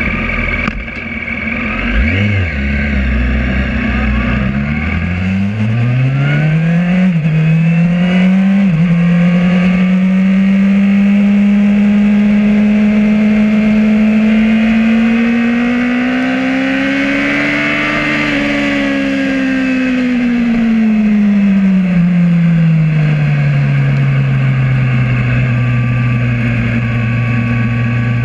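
2008 Yamaha R1's inline-four engine heard from on board, accelerating hard from low revs with a quickly rising note broken by two sudden drops at upshifts. It then holds a steady high note, climbs a little higher, and eases back to a lower, even note.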